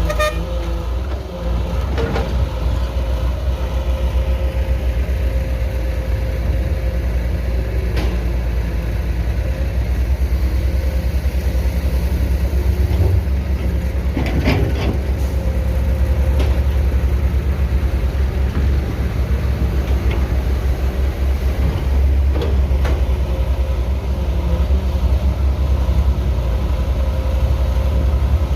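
Heavy construction machine's diesel engine running steadily with a deep low rumble, with a few sharp knocks and clanks, the loudest about fourteen and a half seconds in.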